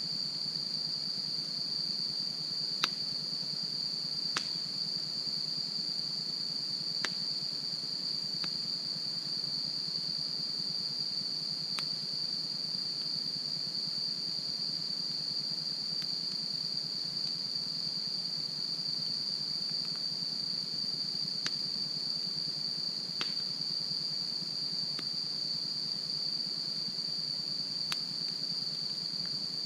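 Campfire burning, with about ten sharp crackles and pops scattered through it, over a steady, high-pitched insect chorus.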